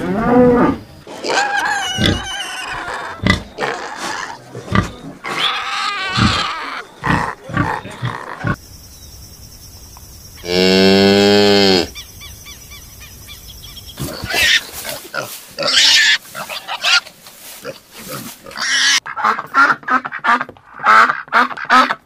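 Pigs squealing and grunting: piglets suckling at a sow, and about halfway through one long, loud squeal. Near the end ducks start quacking rapidly, about three quacks a second.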